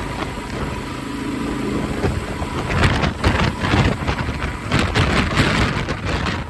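Motorcycle engine running steadily under way, heard through a helmet-mounted phone; from about three seconds in, gusts of wind buffet the phone's microphone in loud, irregular blasts that cover the engine.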